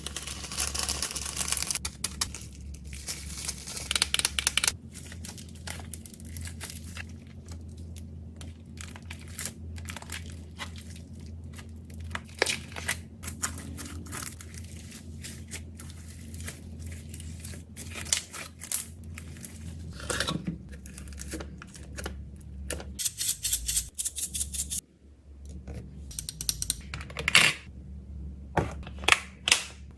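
Plastic packaging crinkling and tearing, with many sharp clicks and taps as small items are handled and packed. The clicks come in louder clusters near the end.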